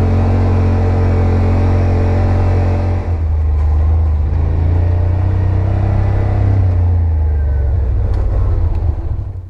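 Yamaha RMAX side-by-side's engine running under way, its note changing about three seconds in, then cutting off near the end.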